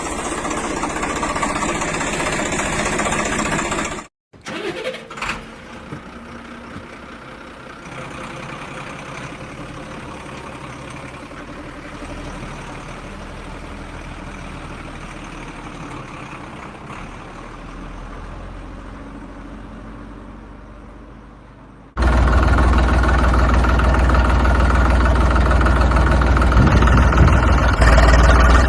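Vehicle engine running steadily, cut off abruptly about four seconds in and back in quieter. Near the end it jumps suddenly to a louder, deeper engine sound.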